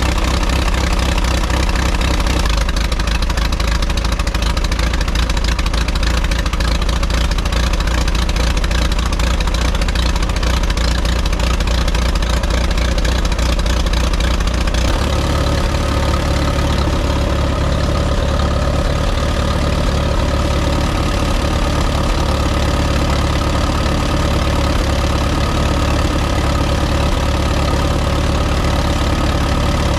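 Allis-Chalmers WD45 tractor's four-cylinder gasoline engine running steadily, newly revived after long storage on a freshly replaced ignition (points, condenser, cap, rotor and coil). Its note changes about halfway through, settling on a higher pitch.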